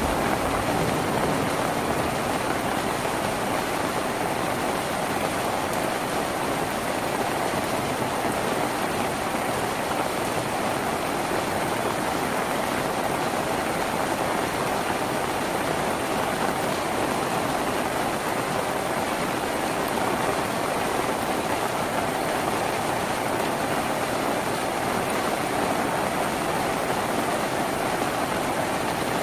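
Steady rain falling on a tin roof: an even, unbroken hiss of drops.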